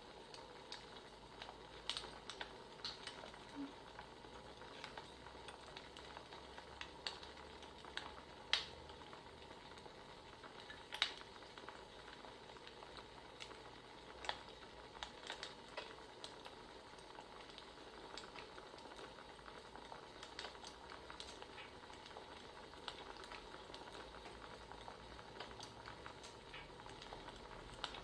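Wood fire crackling: a soft steady hiss with sharp irregular pops and snaps, more of them in the first half.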